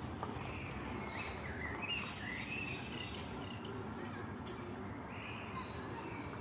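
Birds singing: short rising and falling chirps in two runs, over a steady background noise.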